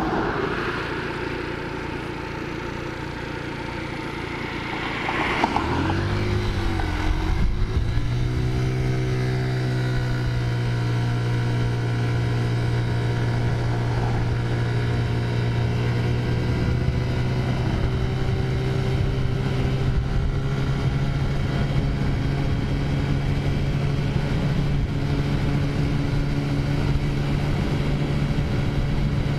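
Taotao 50cc four-stroke scooter engine under way. About six seconds in, the engine note swings up as it accelerates, then settles into a steady drone at cruising speed.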